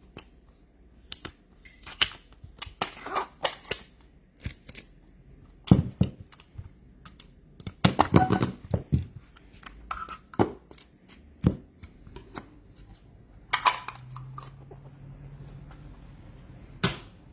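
A trading card box being opened and its cards handled: irregular sharp clicks, snaps and crinkles, with a louder cluster about eight seconds in.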